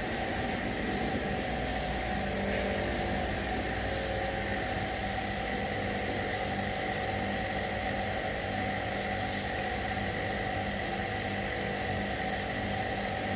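A motor running steadily with a constant hum and hiss, holding the same pitch throughout.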